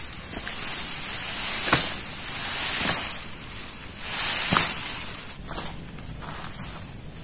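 Heavy rain pouring down through forest trees, swelling in gusts and easing off after about five seconds, with a couple of sharp taps about two and four and a half seconds in.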